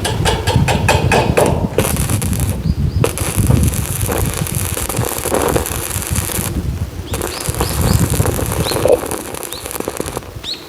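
Electric arc welding crackling in spells, with a few short breaks where the arc stops.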